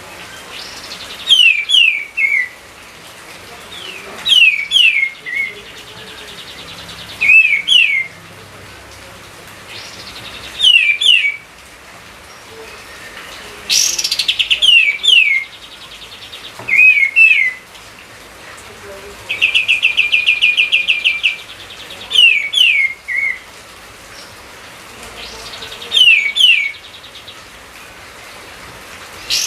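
A songbird repeating a short phrase of two or three quick, descending whistled notes every few seconds. About two-thirds of the way through, the phrase is replaced by a rapid, even trill.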